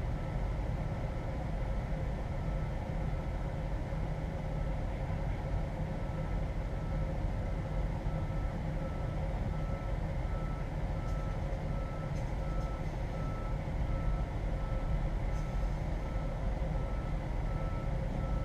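Semi truck's diesel engine running steadily, heard from inside the cab, with a high beeping chime repeating about twice a second from about six seconds in.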